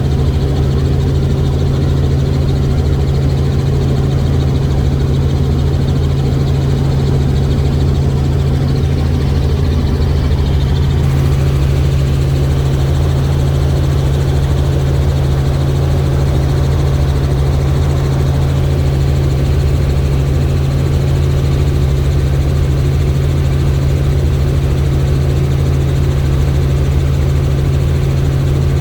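Helicopter in flight: the steady, loud drone of the rotor and turbine engine, with a strong low hum that holds unchanged throughout.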